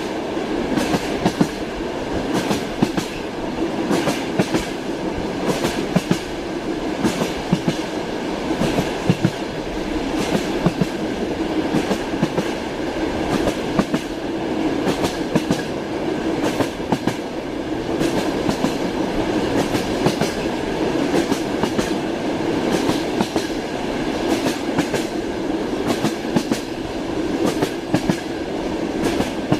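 Train rolling along at speed: a steady rumble with the wheels clicking sharply and often over the rail joints.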